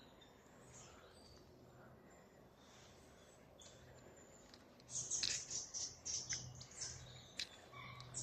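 Siskins calling in alder trees: thin, high-pitched twittering notes, faint at first, then louder and busier from about five seconds in.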